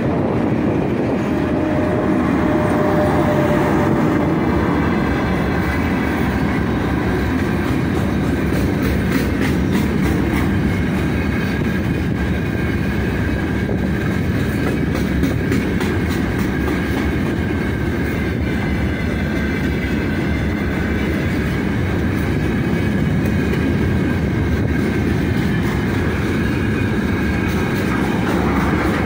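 A long freight train of gondola wagons rolling past close by behind a 3ES5K 'Ermak' electric locomotive: a steady rumble of steel wheels on the rails, with clatter from the wheels.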